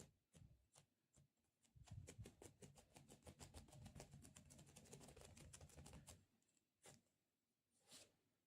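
Soft, close-miked ASMR handling sounds: a few scattered clicks, then a quick run of rapid small clicks over a low rumble for about four seconds, then single clicks again.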